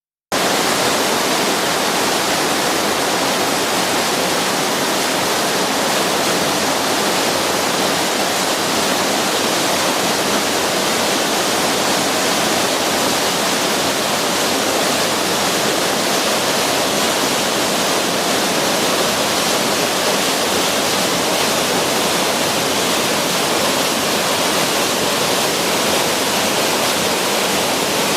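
Waterfall: a steady, loud rush of water falling over rock.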